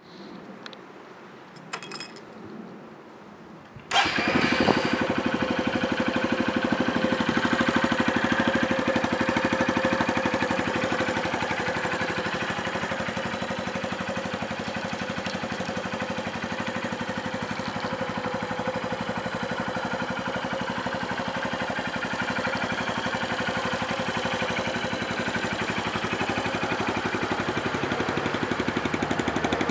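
2013 Honda CBF125's single-cylinder four-stroke engine starting about four seconds in, after a couple of faint clicks, then idling steadily. The engine is in good running order.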